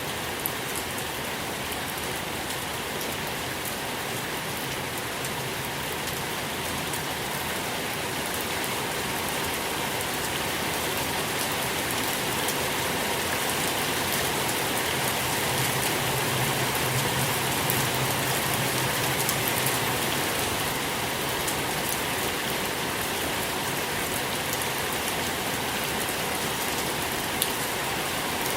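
Steady rain falling, with fine patter of drops; it swells slightly and then eases a little, and a single sharper drop ticks near the end.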